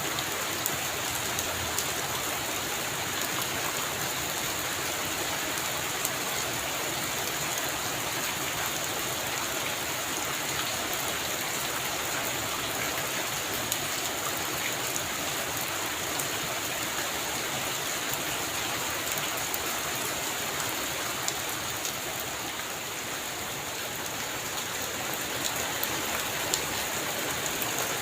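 Heavy rain falling steadily on a roof, a dense hiss with scattered sharp ticks of drops striking close by. It eases slightly for a couple of seconds a little past the middle.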